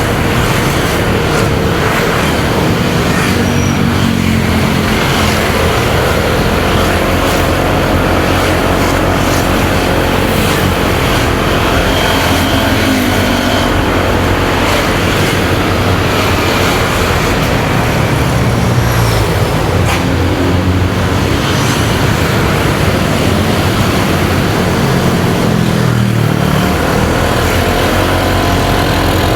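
Motorcycle engine running on the move, its pitch rising and falling as the throttle changes. Steady wind rush and the engines of surrounding road traffic run underneath.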